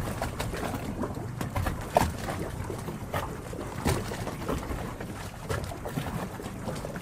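Harbor water lapping and sloshing as a continuous low rumble, dotted with small irregular knocks and a few brief high squeaks.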